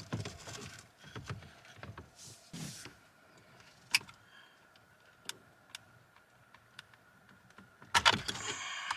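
Plastic dashboard trim being handled and pried during disassembly: scattered sharp clicks, with a louder scraping rub near the end.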